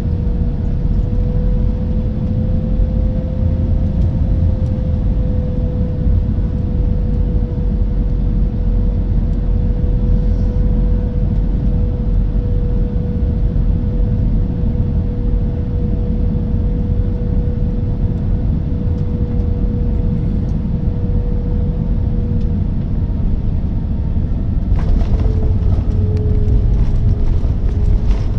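Cabin noise of an Airbus A320-214 with CFM56 engines while landing: a steady low rumble with a steady engine tone. Near the end a louder hissing rush joins in.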